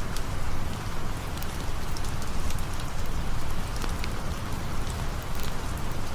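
Steady rain falling, with scattered sharp crackles from a campfire.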